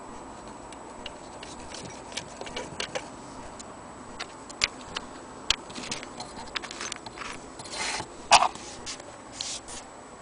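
Modern weight-driven clock movement ticking faintly, over irregular sharp clicks and knocks; the loudest knock comes about eight seconds in.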